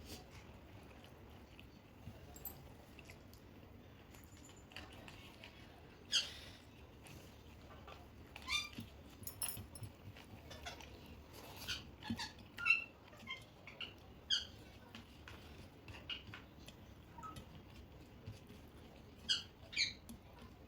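Pet parrot giving short, high squeaky chirps at irregular intervals, more than a dozen, the loudest about two-thirds of the way through.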